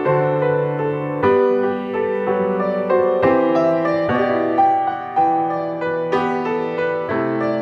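Piano playing a slow, gentle instrumental piece, with chords struck about once a second.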